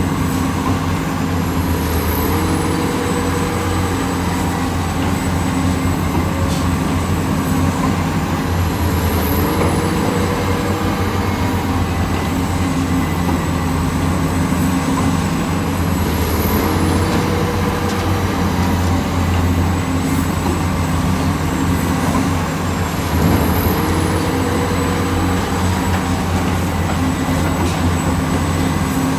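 Heavy diesel construction machinery, excavators and dump trucks, running steadily with a deep engine drone. A higher tone rises and then fades about every seven seconds.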